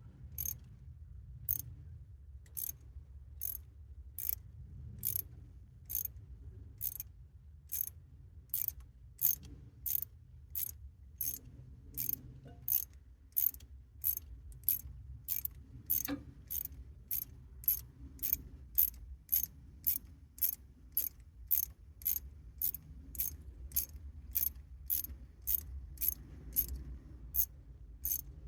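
Socket ratchet clicking steadily, about two clicks a second, as it unscrews a glow plug from a Kubota D905 diesel engine's cylinder head.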